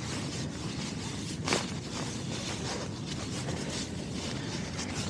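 Strong wind blowing steadily, with a low rumble of wind on the microphone, and one short scrape or knock about a second and a half in.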